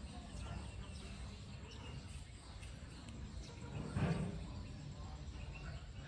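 Faint scattered bird chirps over a steady low outdoor rumble, with one brief louder thump about four seconds in.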